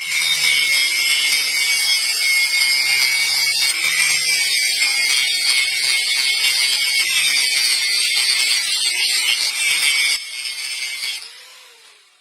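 A power tool grinding or abrading the rusty pliers' metal with a steady, high hissing sound. About ten seconds in it is switched off and winds down to silence.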